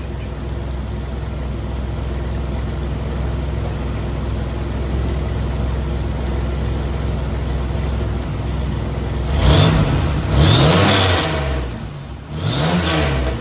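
2000 Chevrolet Camaro engine idling steadily, then revved quickly three times near the end, rising and falling each time. The exhaust cutout is still leaking in more than one place.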